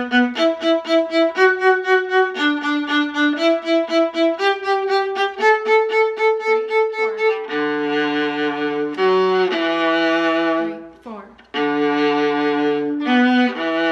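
String-orchestra music for beginners, bowed strings playing a tune of short repeated notes that steps upward, then changes to longer held notes with a lower part underneath about halfway through. The music breaks off briefly and starts again near the end.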